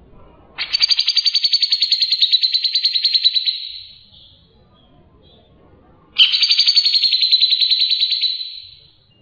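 Songbird singing two long, rapid trills, each about three seconds long, the first starting about half a second in and the second about six seconds in: the fast 'tembakan' bursts of a masteran bird-song recording.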